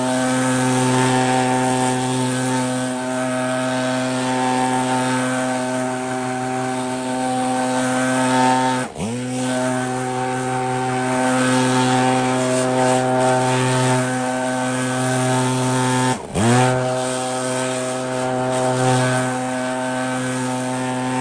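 Two-stroke gas backpack blower running at a steady high throttle while blowing snow, briefly dropping out twice, about nine and sixteen seconds in.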